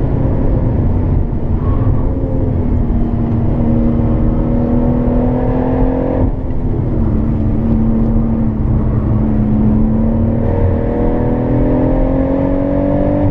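Stage-1 tuned BMW M140i's turbocharged 3.0-litre inline-six pulling hard under full throttle, heard from inside the cabin over tyre and road noise. The engine note climbs, drops suddenly at a gear change about six seconds in, then climbs again near the end.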